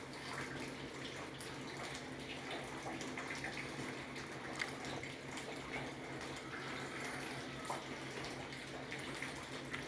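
Steady hiss of light drizzle, over a low steady hum, with a few faint clicks as a dog eats from a tray.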